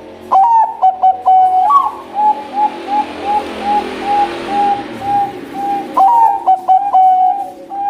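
Zebra dove (Bangkok-type perkutut) singing loudly. A brisk opening phrase is followed by a run of about ten short, evenly spaced coos, and a new phrase begins about six seconds in.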